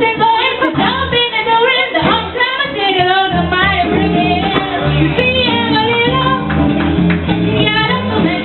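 Live band music with a woman singing over a steady bass line.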